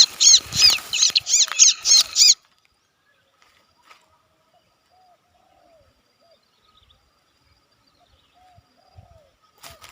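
Bar-winged prinia (ciblek) calling with a rapid series of loud, sharp, high chirps, about five a second, which cut off abruptly about two seconds in. After that, only a few faint, lower bird notes.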